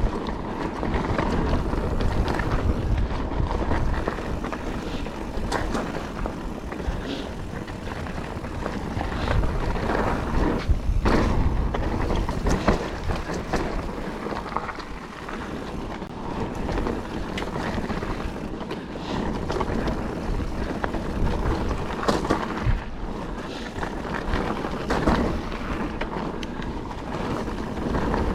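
Calibre Triple B mountain bike ridden at speed down dry, loose trail: tyres crunching over gravel and dirt, with constant rattling and knocking from the bike and wind rushing on the microphone.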